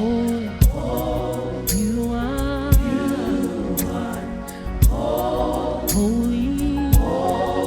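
Live gospel-style worship music: voices holding long sung notes over the band, with a deep kick-drum hit about every two seconds and steady cymbal ticks.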